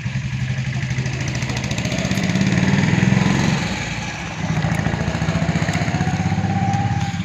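A motor vehicle engine running, swelling louder about three seconds in, easing off briefly, then running steadily again.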